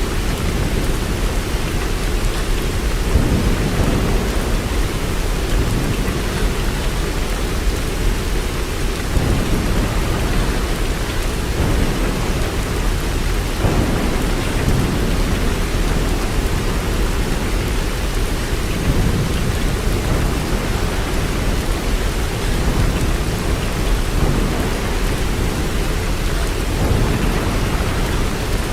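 Steady heavy rain, an even hiss throughout, over a deep low rumble that swells and fades several times.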